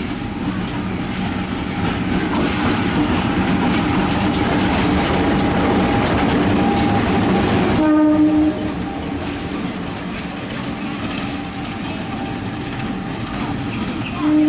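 Loud rumble and clatter of a container freight train passing, hauled by a CC 203 diesel-electric locomotive. A short locomotive horn blast sounds about eight seconds in and another at the very end, and the train noise is quieter after the first horn.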